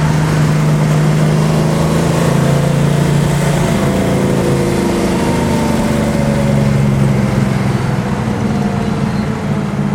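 1966 Chevrolet El Camino's 283 small-block V8, with four-barrel carburettor and dual exhaust through mufflers, running steadily on the road. Its note eases slightly lower in pitch through the second half.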